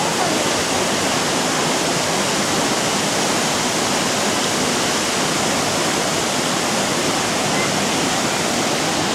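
Small Chegem waterfall: a steady, even rush of falling water.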